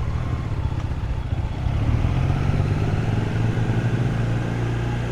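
Triumph Trident 660's three-cylinder engine running at low speed in first gear while the motorcycle is ridden, its note holding fairly steady with road noise.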